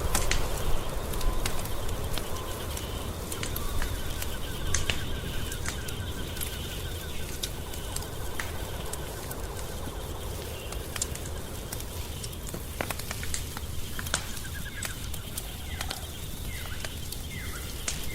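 Wood fire in a fireplace crackling steadily, with frequent sharp pops over a low rumble. High, fast-pulsed chirping trills run behind it, and several short falling chirps come near the end.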